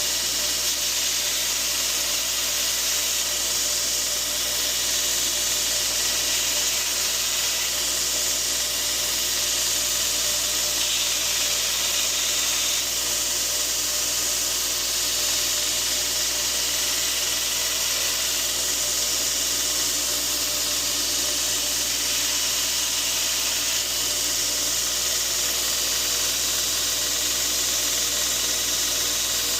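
A 2x42 belt grinder with a radius platen runs steadily with a strong hiss, grinding the broken tip of a steel paring knife back to a point.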